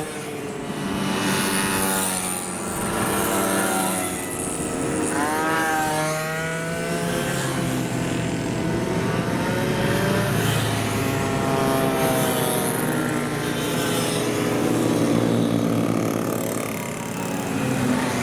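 50cc moped engines revving as the mopeds pass one after another, several overlapping. Their pitch rises and falls as each goes by, most clearly about five seconds in.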